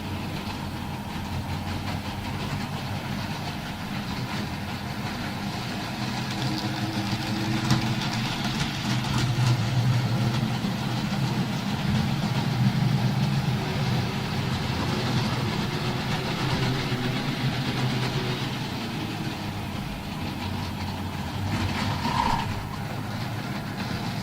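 Model railway train running on the layout: a steady motor hum that swells louder through the middle and eases off again.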